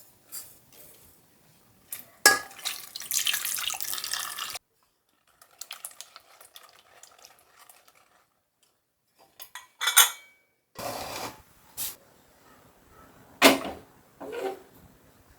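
Kitchen work sounds: water running for about two seconds and stopping abruptly, then scattered knocks and clinks of dishes and utensils, with two sharp clinks standing out near the middle and toward the end.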